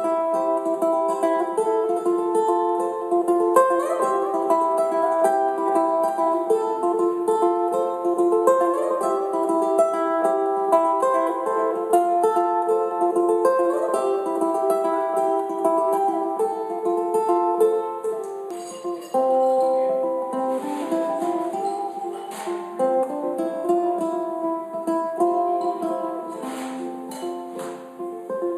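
Ukulele played through a loop pedal, plucked notes repeating in layered loops. About nineteen seconds in the pattern changes and lower notes come in.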